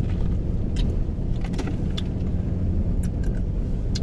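Car interior while driving: a steady low rumble of engine and tyres, with a few scattered light ticks and jingles.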